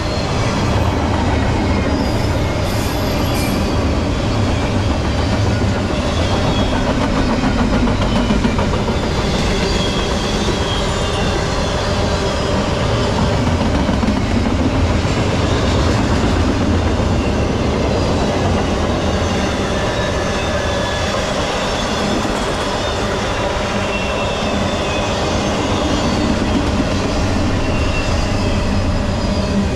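Double-stack intermodal freight train's container well cars rolling past: a steady rumble of steel wheels on rail with some clickety-clack over the joints. Faint high wheel squeals come and go.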